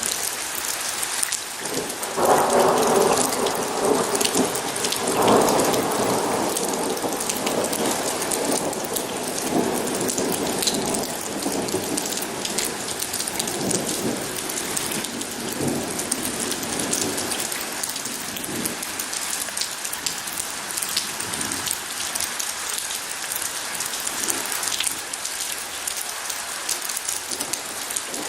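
Steady rain falling, with a roll of thunder breaking in about two seconds in, swelling again a few seconds later and rumbling away, while the rain carries on.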